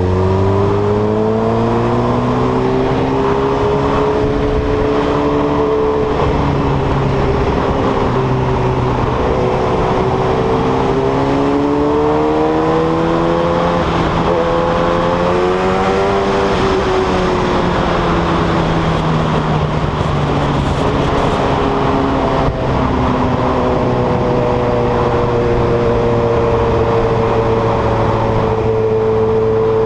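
Yamaha R1 RN09's inline-four engine run without an exhaust silencer, picked up by a camera mounted on the bike as it is ridden: the engine note climbs and falls with the throttle and gear changes, dropping sharply about seventeen and again about twenty-two seconds in, then holds fairly steady.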